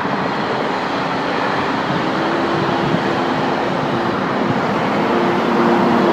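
Steady road traffic noise, a continuous rush of passing vehicles with a faint engine hum holding a few steady tones from about two seconds in.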